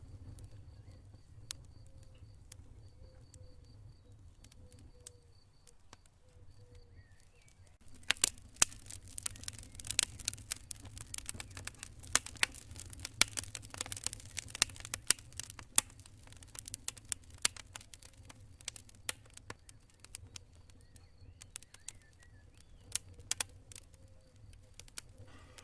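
Campfire crackling with sharp pops, thickening into a dense run of loud pops from about eight seconds in, then thinning out again. A cricket chirps in even pulses through the first part and again near the end.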